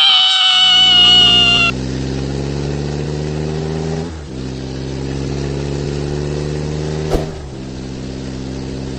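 A loud, high cry that falls slightly in pitch, ending after a second or two, over a car engine sound laid onto the toy truck's movement. The engine runs steadily and slowly rises in pitch, dipping briefly about four seconds in and again about seven seconds in.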